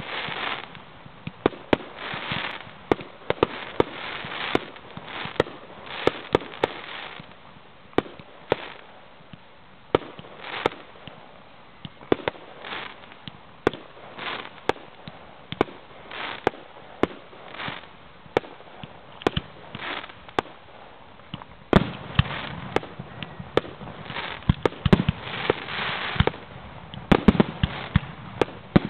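Fireworks display heard from a distance: aerial shells launching and bursting in a steady run of sharp bangs, with patches of crackle between them. About three quarters of the way through the bangs come thicker and heavier.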